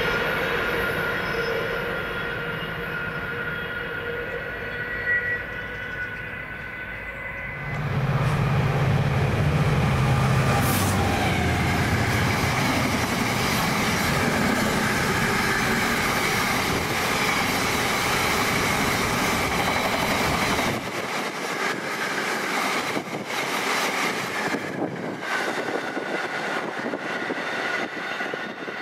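Container freight train passing at speed: steady high ringing tones as it approaches, then a sudden loud rush and low rumble about eight seconds in as the locomotive and container wagons reach the microphone. The rumble drops away about two-thirds through, leaving the clicking of wheels over rail joints as the train recedes.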